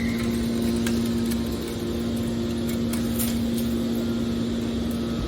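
Hydraulic scrap-metal baler's power unit running with a steady hum, with a couple of faint clicks.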